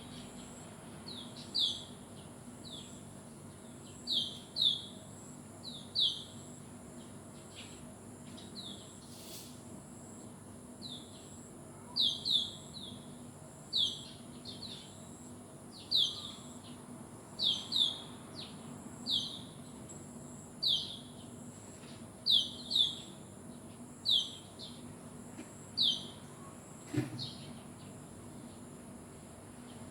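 A bird chirping over and over: short, high chirps, often in quick pairs, every second or two. One soft knock near the end.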